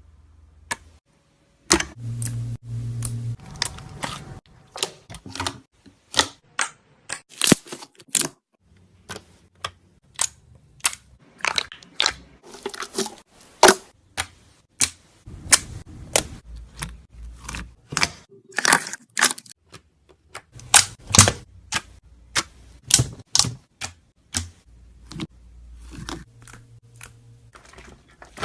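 Jiggly slime being poked and squeezed by fingers close to the microphone, making a run of sharp clicks and pops at an irregular pace, a few a second.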